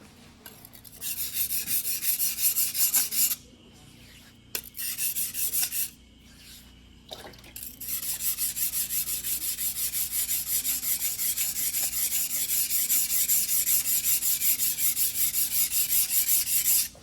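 Single-bevel white-steel fuguhiki blade being stroked back and forth by hand on a whetstone, a rhythmic scraping of about four strokes a second. It comes in three spells: two short ones, then a long unbroken run from about halfway through.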